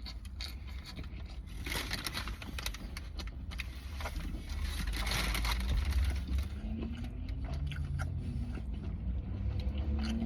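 A person biting into and chewing a chicken wrap, with crunching and rustling in two bouts, over a steady low rumble.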